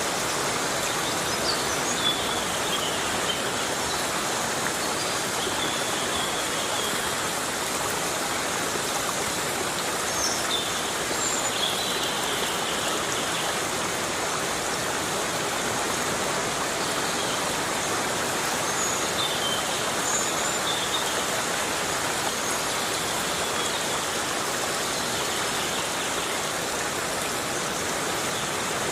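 Steady heavy rain falling in a forest, an even unbroken hiss, with a few short high chirps here and there.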